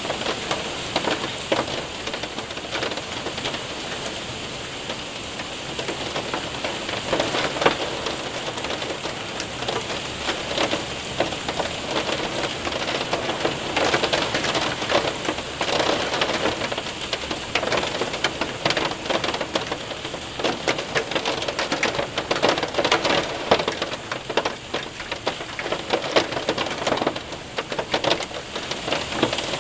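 Hail and rain hitting a window and roof: a steady rain hiss thick with many small, sharp ticks of hailstones striking.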